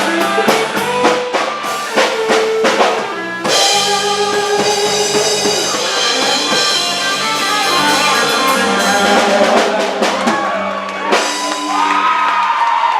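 Live band with drum kit and electric guitar playing, the drums striking repeatedly for the first few seconds, then a long held chord with sliding notes near the end before the music stops, like a song's closing flourish.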